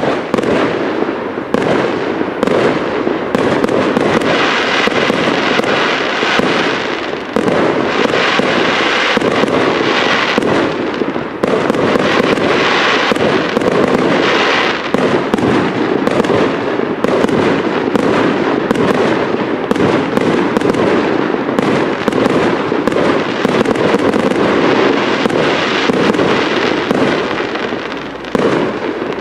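Professional fireworks display firing a continuous barrage of small shells, a dense, unbroken run of bangs and pops with no pause.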